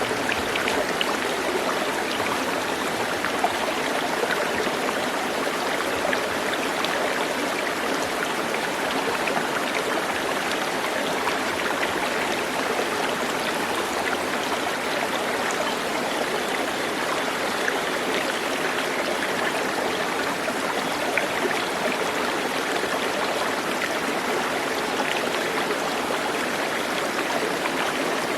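Steady rush of flowing water, like a stream running over stones, with faint scattered splashes and no distinct bird calls.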